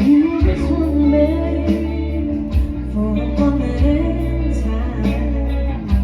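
Live band music: a woman singing over guitar, bass and drums.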